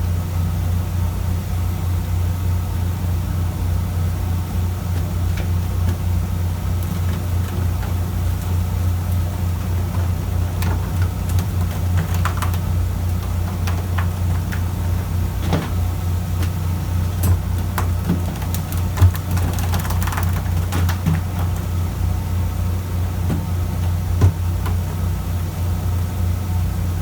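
Fishing boat's engine running steadily with a low hum, with scattered clicks and knocks over it and two sharper knocks in the second half.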